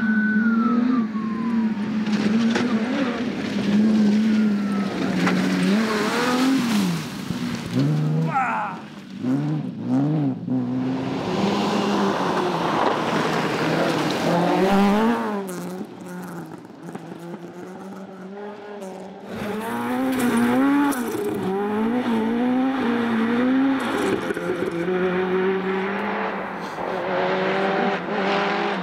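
Rally car engines revving up and dropping back again and again through gear changes as the cars drive through the stage. There is a quieter stretch about halfway, before the engines come back loud.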